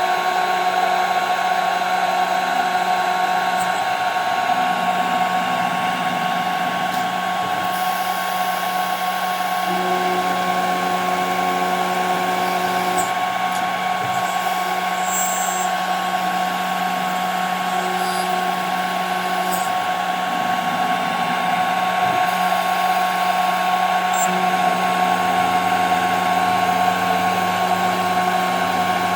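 CNC router spindle cutting 5 mm plexiglass: a steady, high-pitched whine over the hiss of the cut, with the lower motor hum shifting slightly every few seconds as the machine moves.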